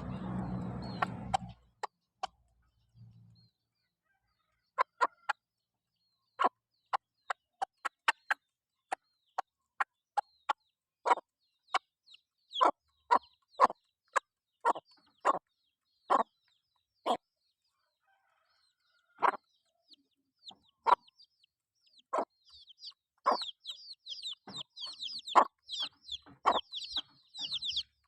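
Chickens clucking while foraging: short single clucks, spaced irregularly, with a dense run of higher, quick chirping joining in for the last several seconds. A short low noise sounds at the very start.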